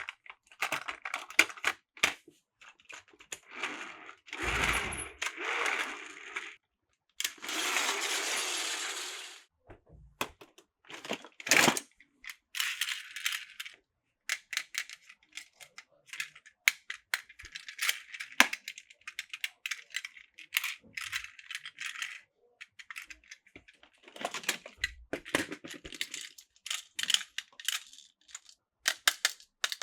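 Plastic Plarail toy track and train parts clicking and rattling as they are handled and fitted together, in many quick sharp clicks. There are two longer rustling stretches, one about four seconds in and one about seven seconds in.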